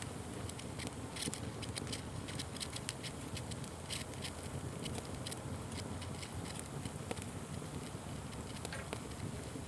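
Fire crackling and popping: many sharp, irregular pops over a steady low rustle of burning.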